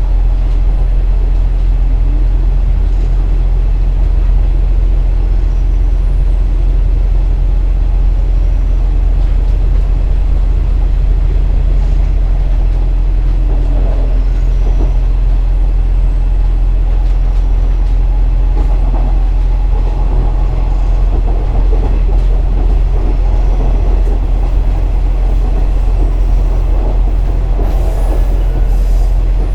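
Running sound inside a KiHa 47 diesel railcar: the underfloor diesel engine gives a steady low drone over continuous rumble from the wheels on the track. The engine note shifts about twelve seconds in.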